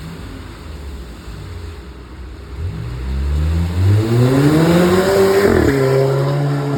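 Exhaust of a 2015 Volvo S60 T5's 2.0-litre turbocharged four-cylinder, modified with downpipe, catback and remap: low running at first, then the engine revs up with a rising note for about three seconds, drops sharply about five and a half seconds in and holds a steady lower note.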